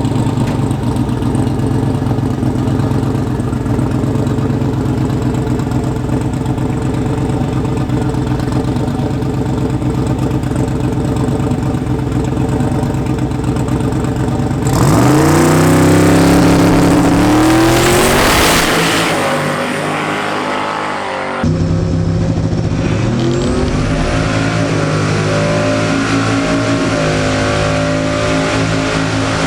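Twin-turbo drag car's engine running steadily at idle. About halfway through it revs hard and pulls away, the pitch climbing, then fades. After an abrupt cut an engine idles again with a few small rev blips.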